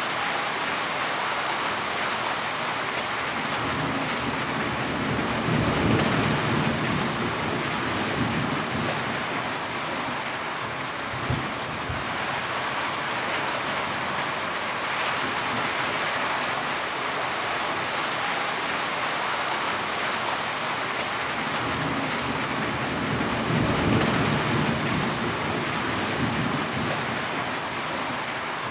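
Steady rain falling, with low rumbles of thunder swelling twice, about five seconds in and again near the end. A single sharp tap sounds about eleven seconds in.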